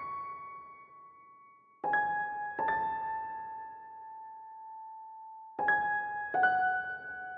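Slow piano-like keyboard music. Two pairs of single notes come about three seconds apart, each struck cleanly and left to ring out and fade.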